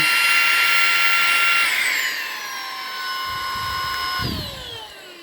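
Eufy HomeVac S11 cordless stick vacuum's motor running at maximum power with a high whine. About two seconds in, the pitch drops to a lower steady whine, and near the end it falls again as the motor winds down. With this motorized accessory it runs normally, with no cut-out.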